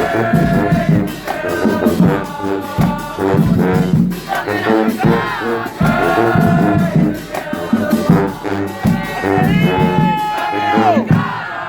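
Marching band playing: brass with drums keeping a steady beat, ending on a held high note that falls off in pitch near the end.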